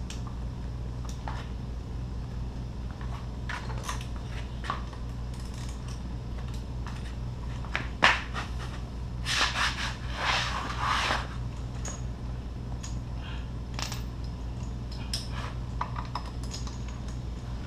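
Hand tools and engine parts being handled: scattered small clicks, a sharp click about eight seconds in, then a few seconds of scraping and rustling, over a steady low hum.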